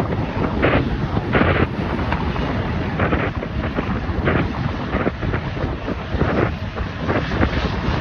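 Strong gusty wind buffeting the microphone: a continuous low rumble with irregular louder gusts, masking other sound.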